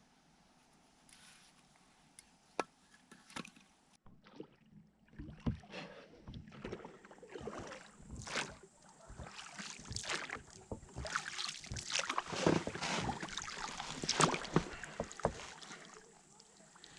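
Oars splashing and knocking as a small rowboat is rowed, with water churning and thumps on the hull. For the first few seconds there are only a few faint clicks, then the splashing starts and grows louder before dying away near the end.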